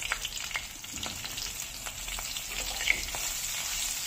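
Green chillies and crushed garlic sizzling in hot mustard oil with tempering seeds in a kadhai, a steady frying hiss with many small pops, while a silicone spatula stirs them through the oil.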